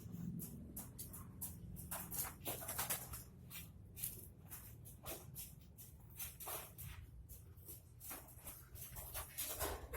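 Faint, irregular clicks and scraping sounds, a few each second, over a low background hum.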